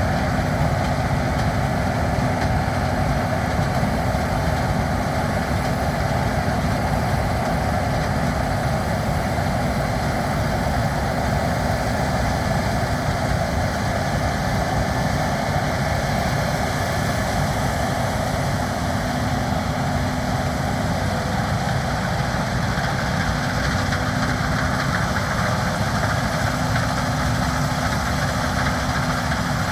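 A large engine running steadily, an even drone with no changes in speed.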